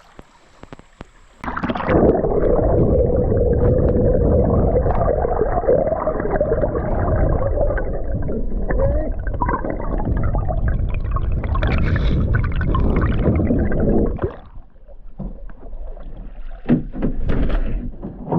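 Loud, muffled rushing and gurgling of creek water that starts suddenly about a second and a half in and drops away about four seconds before the end, leaving quieter water noise with scattered clicks and knocks.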